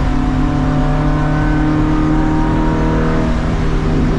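Race car engine running hard under way, its pitch holding high and then shifting about three seconds in.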